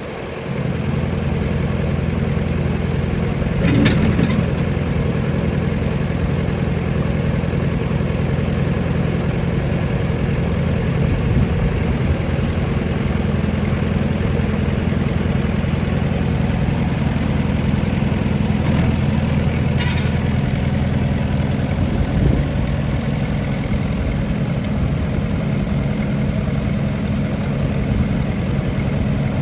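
Massey Ferguson tractor engine idling steadily, its note shifting slightly about three quarters of the way through, with a few faint clicks.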